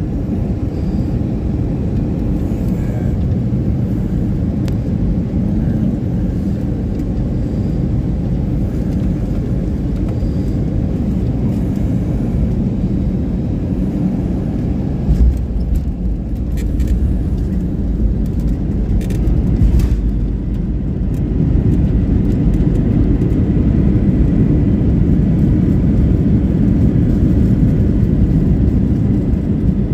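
Airliner cabin noise during landing: a steady low rumble of engines and airflow. About halfway through there is a jolt as the wheels touch down, with a few knocks after it. Over the last third a louder, steady rumble follows as the plane rolls out on the runway.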